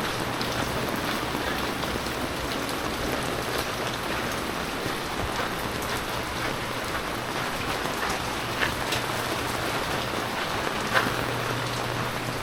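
Steady heavy rain falling and splashing on surfaces, with a few louder individual drops or taps, the sharpest near the end, over a faint low steady hum.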